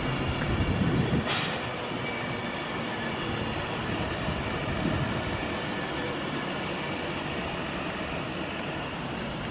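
A five-car Voyager diesel train running through the station with a steady rumble and wheel noise, louder in the first second or so, with one sharp crack about a second in.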